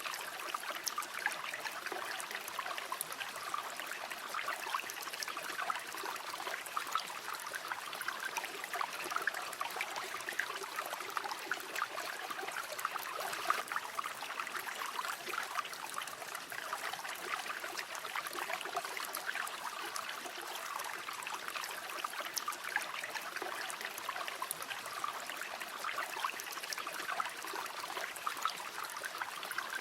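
A shallow river running steadily over stones, a continuous babbling and trickling of water with dense small splashes and no pauses.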